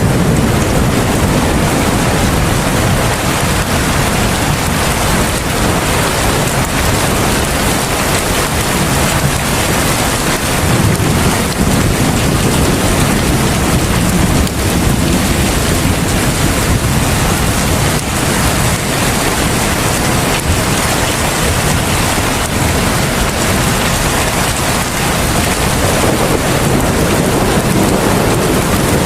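Heavy rain falling steadily, a loud, dense, even hiss with a low rumble that swells now and then.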